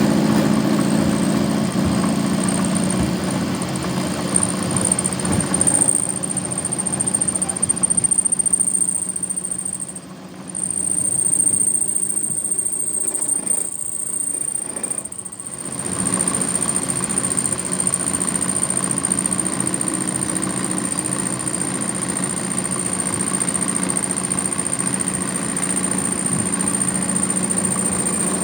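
A machine running steadily, a low hum with a constant high whine over it; it drops away briefly about ten seconds in and again at around fifteen seconds, then carries on.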